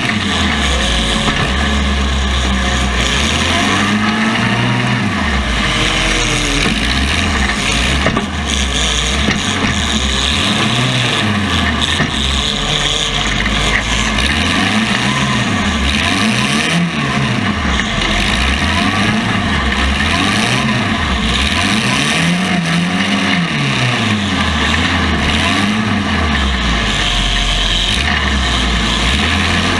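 Compact cars' engines revving up and falling back again and again, over a loud steady mechanical din. One rev cycle follows another every second or two.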